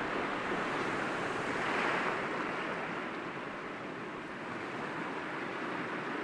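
Sea waves breaking against rocks with a steady wash of surf; one wave swells about two seconds in and fades away.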